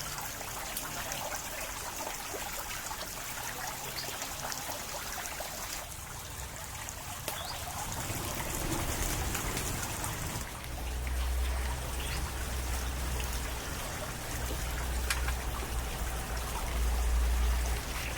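Water trickling and splashing steadily, with small drips and ticks. A deep low rumble comes in about halfway through.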